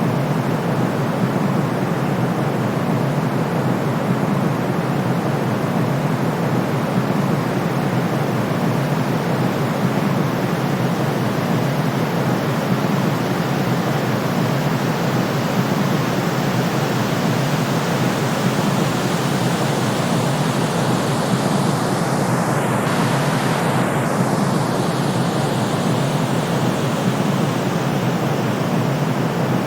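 Steady white noise for soothing a colicky baby: an even, deep hiss with no rise or fall.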